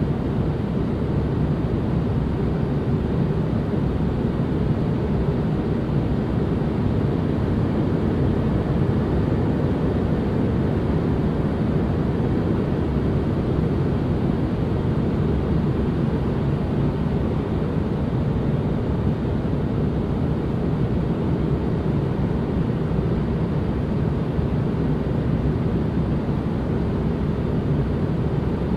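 Steady relaxation white-noise ambience: an even, unbroken rumble-like hiss with most of its weight in the low end.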